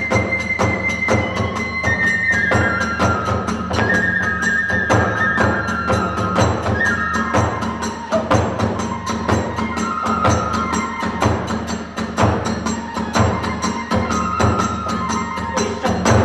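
Kagura hayashi ensemble playing: a bamboo transverse flute carries a stepping melody over a fast, even beat of drum and small hand-cymbal strokes.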